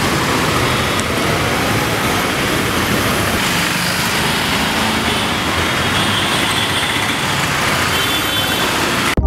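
Steady road traffic noise, a continuous rushing hiss of passing vehicles on a busy street.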